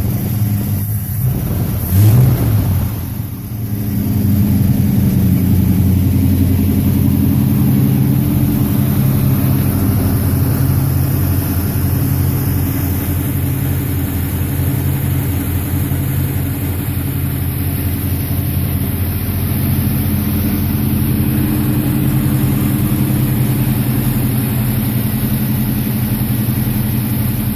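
1951 Chevrolet wagon's 400 cubic inch small-block V8, fed by a four-barrel Holley carburetor, idling steadily as it warms up after a cold start. It gets briefly louder about two seconds in.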